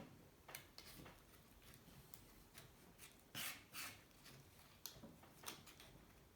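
Near silence with faint scrapes and light clicks of hand work on engine parts, and two louder scrapes close together about three and a half seconds in.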